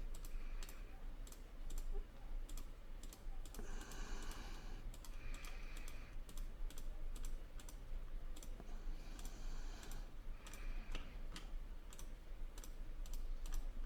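Irregular light clicks of a computer mouse and keyboard, over a low steady hum.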